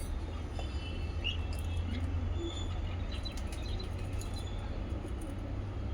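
Small pet parrots chirping and tweeting in short, scattered calls over a steady low rumble.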